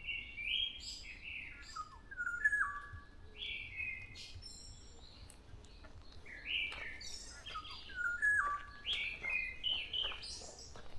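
Black-naped oriole singing: clear whistled notes stepping down in pitch, in two phrases with a pause between, while smaller birds chirp high above it.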